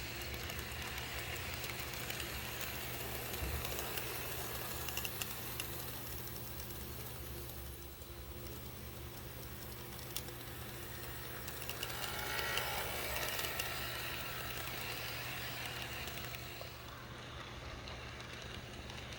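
HO scale model train running on the layout: a steady low hum with scattered clicks. Around twelve seconds in, a wavering higher tone rises and falls for a couple of seconds.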